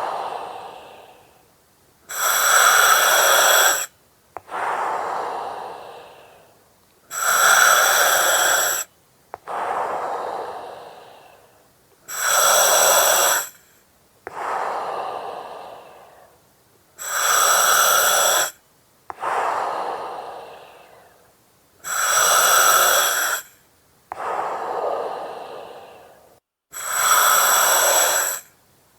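Breathing through an oxygen mask, in a regular rhythm of about one breath every five seconds. Each breath is a loud hiss with sharp starts and stops, followed by a softer breath that fades away.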